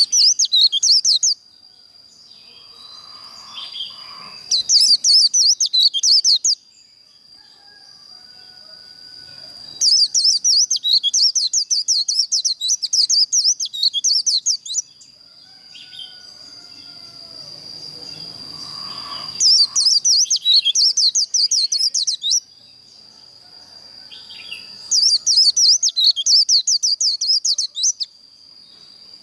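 White-eye (vành khuyên) singing its rapid, high twittering 'líu' song in five bursts of two to five seconds each, the kind of song used to fire up other white-eyes for song contests. A steady high-pitched tone, like an insect's drone, runs underneath.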